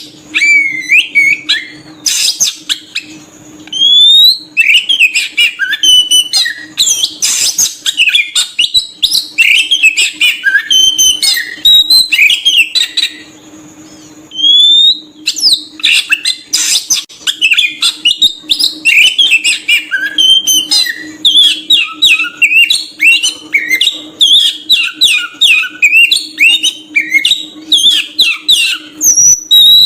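An Oriental magpie-robin sings a varied song of quick whistles, chirps and sweeping notes, with a pause of about two seconds near the middle. A faint steady hum runs beneath it.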